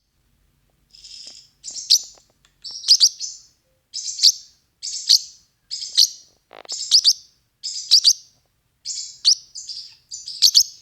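Parrotlet chirping: a series of short, high, harsh calls about once a second, each with a sharp peak.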